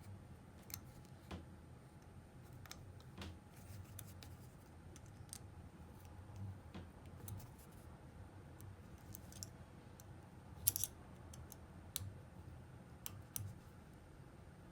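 Faint, scattered clicks and light knocks of hand tools and small parts being handled, with the sharpest cluster about eleven seconds in.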